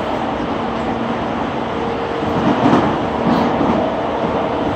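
Running noise of a JR East E231 series 800-subseries commuter train heard from inside the car while it runs between stations: a steady rumble of wheels on rail with a low, steady hum. It gets louder for about a second in the middle.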